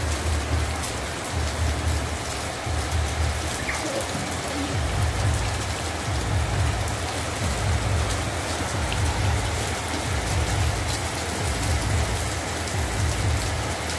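Heavy rain pouring onto a wet concrete rooftop, a steady hiss of drops, with a low rumble that comes and goes under it.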